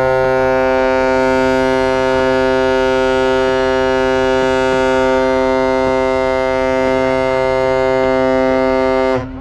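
A ship's horn sounding one long, steady blast, cutting off sharply near the end.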